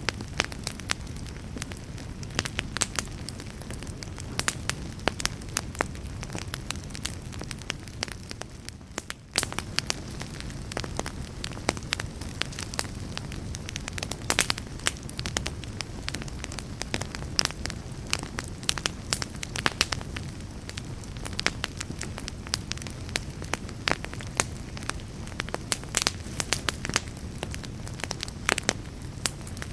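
Wood fire crackling: frequent sharp pops and snaps over a low, steady rumble of burning flames, with a brief lull about nine seconds in.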